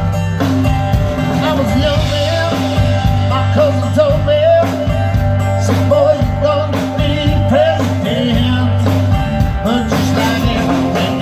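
Rock band playing an instrumental passage between sung lines: a lead line with bending, sliding notes over a steady bass and drums.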